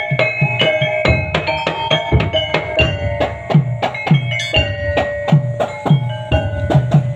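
Music for Javanese Topeng Ireng dance practice: drums struck in a fast repeating pattern, each stroke dropping in pitch, over steady ringing metallic tones and quick sharp clicks.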